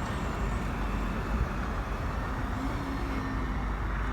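Road traffic noise: a steady rumble of passing vehicles, with a faint engine hum that comes in about two and a half seconds in.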